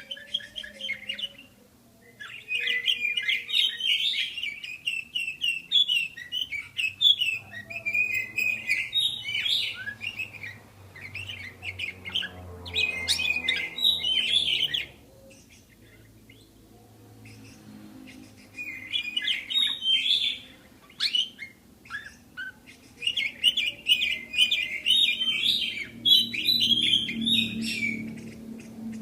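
Budgerigars chirping and warbling in quick chattering bouts, with a few short pauses between them.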